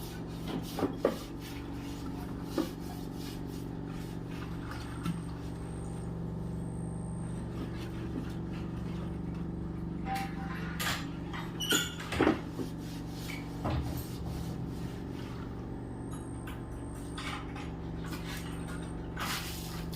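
Scattered knocks and clinks of earthen pots being handled, over a steady low hum.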